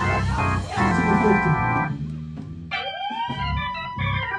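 Organ playing sustained chords, with a note sliding upward into a held high tone about halfway through.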